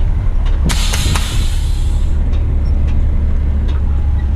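Heavy truck's diesel engine idling with a steady low rumble. About a second in, a sudden hiss of compressed air from the truck's air system, fading out over about a second and a half.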